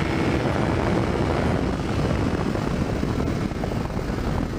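Heavy wind rush buffeting a helmet microphone at road speed, over the running V-twin engine of a 2005 Aprilia RSV Tuono.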